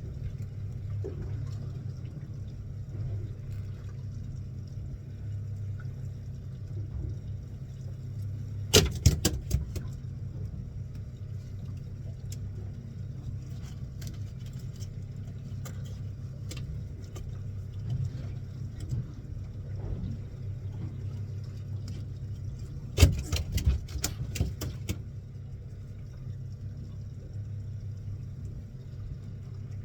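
Fishing boat's engine running steadily, with two bursts of sharp knocks and clatter, one about nine seconds in and a longer run about twenty-three seconds in.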